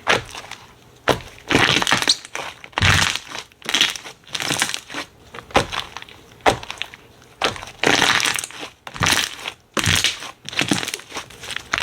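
Slime being pressed and squeezed by hand, a string of short squishing, crackling sounds about one a second, some with sharp clicks.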